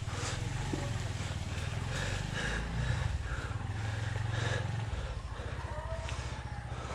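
Two-stroke chainsaw idling, a steady low putter.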